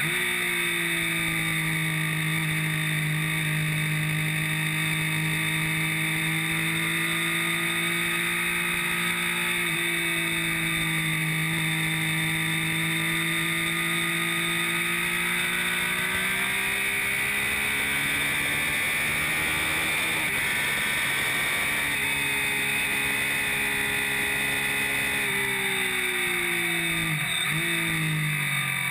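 Triumph Street Triple R's 675 cc inline-three engine pulling hard at track speed, heard close from under the tail together with rushing wind. Its note holds fairly steady for long stretches and dips and climbs again a few times, most sharply near the start and near the end.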